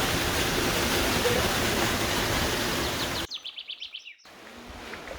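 Waterfall water rushing, a steady loud hiss that cuts off suddenly about three seconds in. A bird then gives a quick run of high chirps lasting about a second, over faint water noise.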